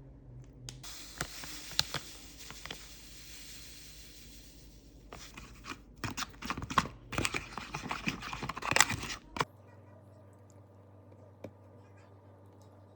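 Rustling and scraping handling noises with a run of sharp clicks, like something being torn or unwrapped, that stop abruptly about three quarters of the way in and give way to a low steady hum.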